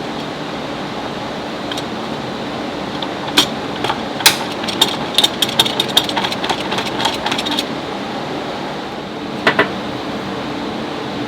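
Steady fan-like hum with a run of sharp clicks and clatter from about three to seven and a half seconds in, and two more clicks near the end.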